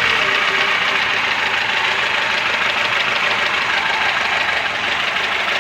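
Engine running with a steady rhythmic knock that remains with the valves freshly adjusted. It sounds much like a valve, but the owner takes it for a piston or connecting rod.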